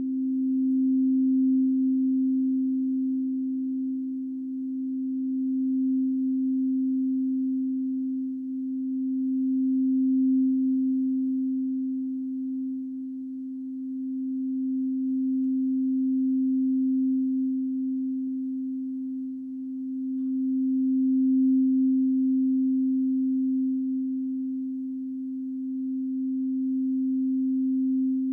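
Singing bowl played in a sound healing session: one steady, nearly pure low tone held throughout. It swells and fades slowly every several seconds.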